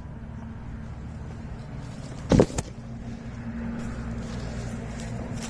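Low, steady hum and rumble of a motor vehicle engine running at a distance, with one loud, short thump about two and a half seconds in.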